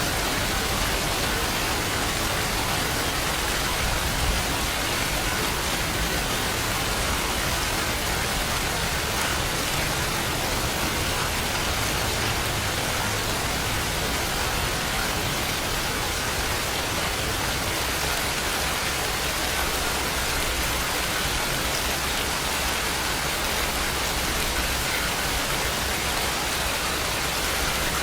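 Steady rainfall, an even unbroken hiss of rain on a surface with no distinct drops or thunder standing out.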